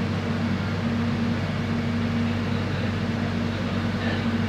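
Airport rail link train running, heard inside the carriage: a steady rumble and hiss with a constant low hum.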